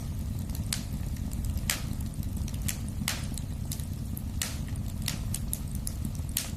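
Wood fire in a fireplace crackling: a steady low rumble of burning, with irregular sharp pops about once a second and smaller ticks between them.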